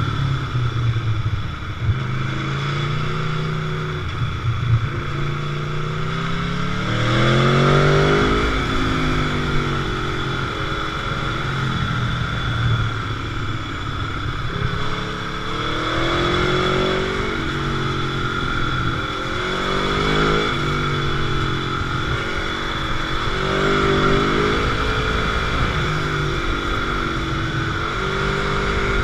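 Sport motorcycle engine under way, accelerating hard several times with the pitch climbing, then dropping back as the throttle rolls off between bends.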